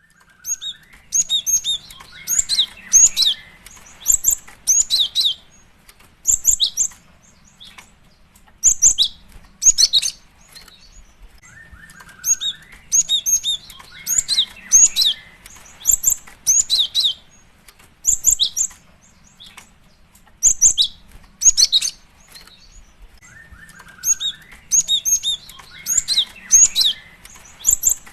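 Female cinereous tit (gelatik batu) calling: clusters of short, high, sharp chirps in quick runs, broken by pauses of a second or two. Each long sequence opens with a lower sliding note, and the same pattern comes back about every twelve seconds.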